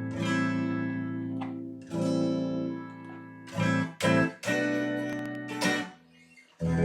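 1997 Squier Jagmaster electric guitar played clean through an amp: about six strummed chords left to ring, with a short gap before the last. The freshly cleaned electronics give no static or crackle.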